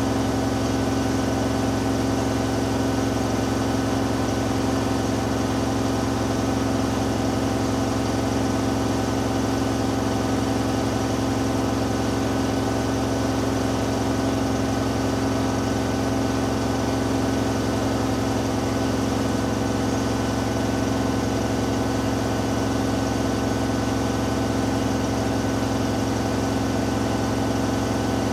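Hoover Dynamic Next washing machine in its final spin, the drum turning at a steady high speed with a constant motor whine and hum that does not change.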